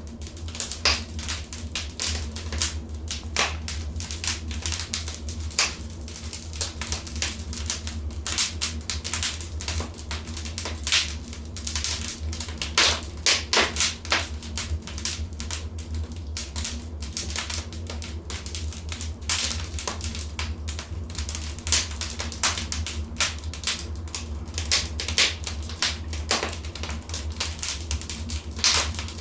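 Wood fire crackling in a fireplace: irregular snaps and pops, some in louder clusters, over a steady low rumble.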